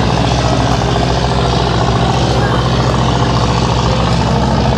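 Steady drone of boat engines idling at the pier, a low even hum under a constant noisy hiss.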